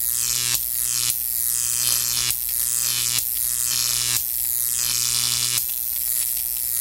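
Synthetic horror sound effect: an electric buzzing pulse over a steady low hum. High hissy sweeps fall in pitch and restart every half second to a second or so, in a glitchy stutter.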